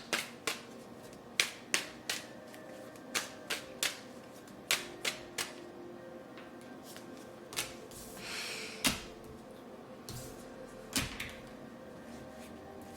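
Tarot cards being handled and shuffled: a string of sharp, separate card snaps and taps, with a brief rustling slide of cards about eight seconds in.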